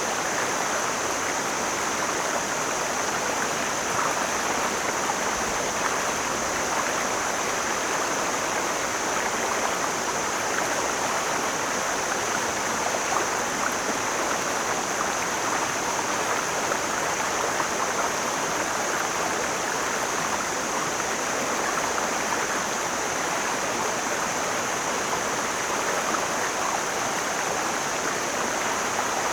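Mountain stream flowing in a steady, even rush of water over rocks, with a constant high hiss above it.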